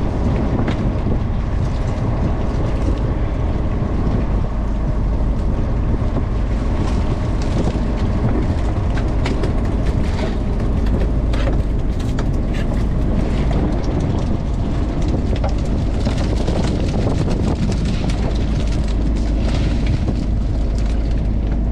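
Bottom trawler's diesel engine running steadily, a loud even drone, with scattered faint ticks on top.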